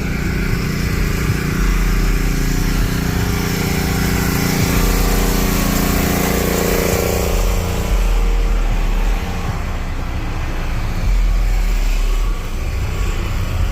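Deep bass notes booming from a car sound system every couple of seconds, over a steady engine-like drone that fades about halfway through.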